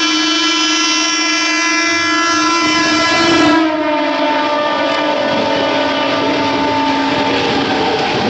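Indian Railways EMU local train sounding a long horn as it passes, the horn dropping in pitch a little over three seconds in as the train goes by. The rushing, rattling run of its coaches carries on under the horn to the end.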